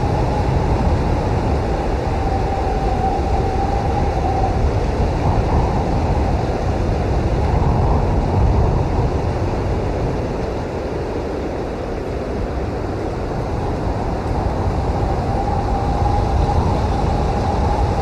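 Blizzard wind blowing hard and steadily, with a deep rumble and a thin whistling howl that fades out about a quarter of the way in and comes back near the end.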